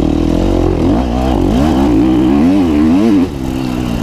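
KTM 250 XC-F single-cylinder four-stroke dirt bike engine under way on a trail, its revs rising and falling repeatedly as the throttle is rolled on and off. About three seconds in it drops to lower, quieter revs.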